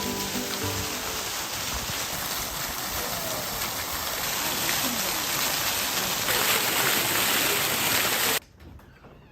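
Steady hiss of falling water, rain-like, that cuts off abruptly about eight seconds in.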